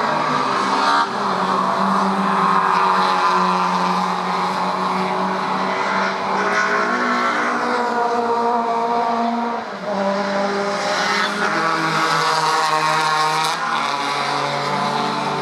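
Classic DTM touring race cars running at racing speed, several engines at once, their engine notes shifting in pitch as they change gear and pass.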